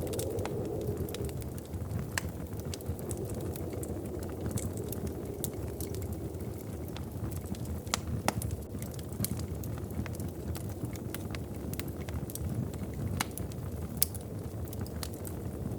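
Wood fire crackling in a fireplace: frequent small sharp pops and snaps, a few louder ones, over a steady low rumble.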